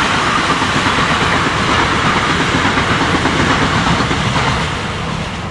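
A train running past close by: a steady, loud noise of wheels on rails.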